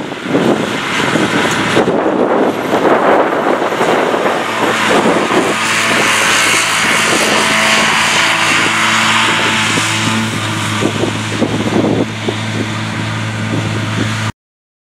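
Claas Arion 650 tractor's six-cylinder diesel engine running steadily while a Claas Disco disc mower cuts grass, a constant engine tone under a hissing rush. The sound is uneven for the first few seconds, then settles, and cuts off abruptly near the end.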